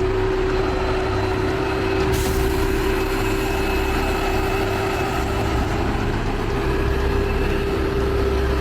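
Heavy diesel truck engine running steadily under load, a low rumble with a steady hum held at one pitch.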